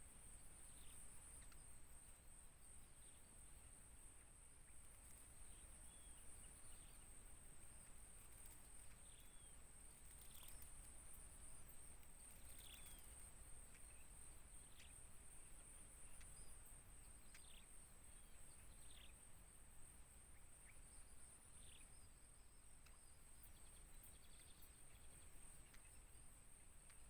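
Faint natural ambience: a steady, high-pitched insect drone with scattered short, high bird chirps every second or two.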